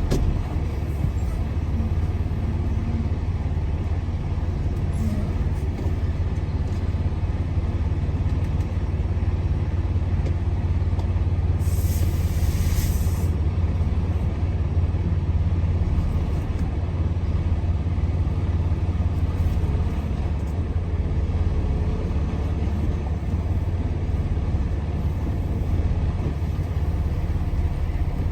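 Semi-truck diesel engine running with a steady low rumble while the truck is maneuvered at low speed, and a short hiss of air from the air brakes about twelve seconds in.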